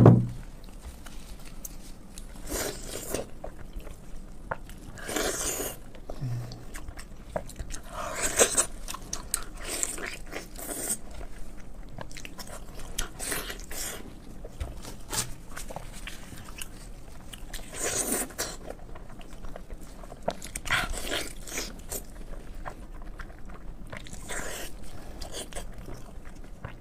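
A person biting and chewing braised pig's head meat close to the microphone. The eating sounds come in short bursts every two to three seconds, after a sharp knock at the very start.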